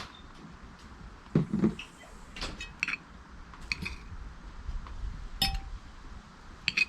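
Cutlery and dishes clinking at a meal table: scattered sharp clinks about once a second, with a duller knock about a second and a half in.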